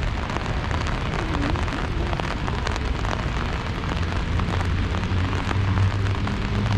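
Rain falling, with a dense patter of many small drop impacts. A low steady hum comes up about five seconds in and grows louder.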